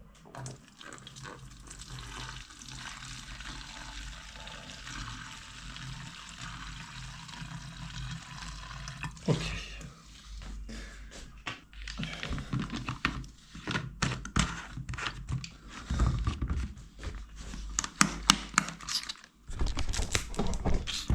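Gasoline rushing steadily out of a canister for about nine seconds, followed by a run of clicks and knocks as engine parts are handled.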